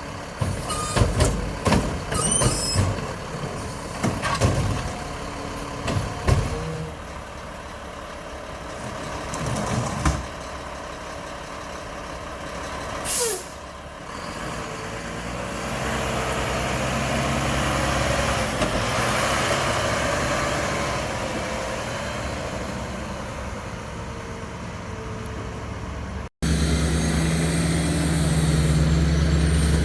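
Mack LEU garbage truck with a McNeilus Meridian body at work: a run of clanks and bangs over the first several seconds, a short sharp air-brake hiss about thirteen seconds in, then the engine running at raised revs for several seconds. Near the end the sound cuts abruptly to the truck's engine humming louder and lower.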